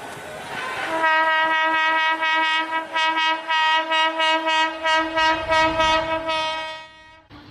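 WAP-7 electric locomotive's horn sounding one long steady blast of about six seconds, pulsing in loudness and cutting off sharply near the end. A low train rumble runs beneath it.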